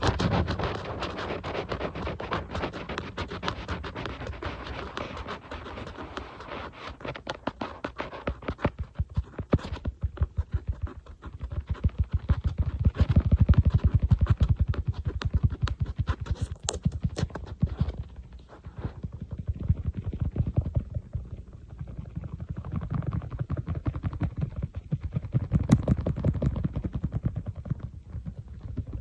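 Fingers tapping and scratching rapidly on an iPad. Scratchy strokes come first, then runs of duller, quicker taps in bursts.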